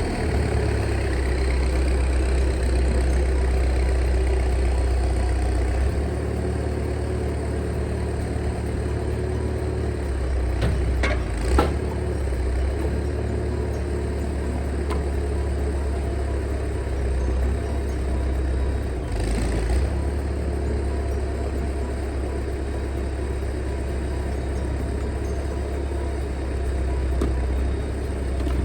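An engine running steadily at a low, even speed, with one sharp knock a little before the middle and a brief rush of noise about two-thirds of the way through.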